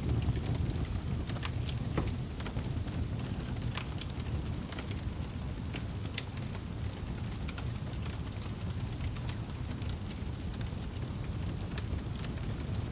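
Wood fire crackling: irregular sharp pops and snaps over a steady low rumble of burning logs, with one louder pop about six seconds in.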